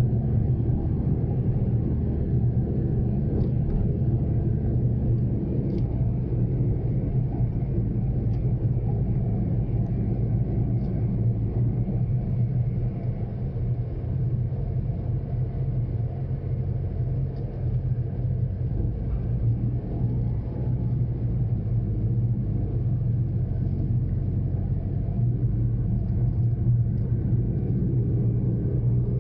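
Steady engine and road drone of a Daihatsu Mira Cocoa kei car driving, heard inside the cabin.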